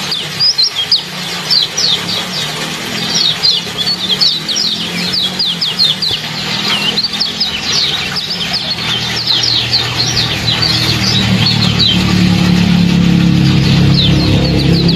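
Rapid, dense 'ciak ciak' chirping of small songbirds, many short high notes that fall in pitch, under which a low steady hum grows louder in the second half.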